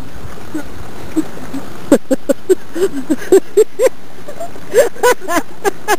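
Steady hiss of falling rain. From about two seconds in, a child's voice gives a quick run of short high-pitched vocal sounds, with a second cluster near the end.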